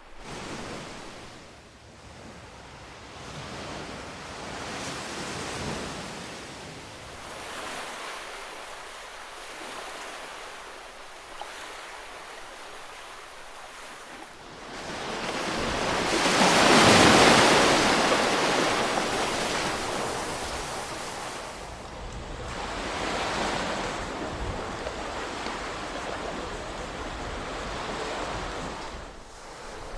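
Ocean surf breaking and washing up a shore: a rushing noise that swells and ebbs every few seconds, with one bigger wave about halfway through.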